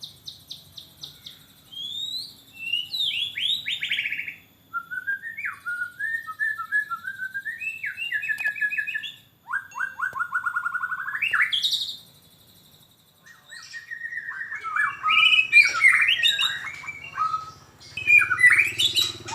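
Young long-tailed white-rumped shama singing loudly: a varied run of rapid trills and whistled phrases, breaking off briefly about two-thirds of the way through, then returning in a denser, more jumbled stretch of phrases.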